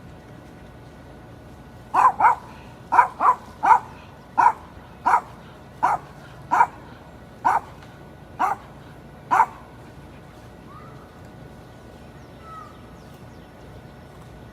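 A dog barking about a dozen times in a series, the first barks coming in quick pairs, then slowing to a steady pace before stopping about two-thirds of the way in.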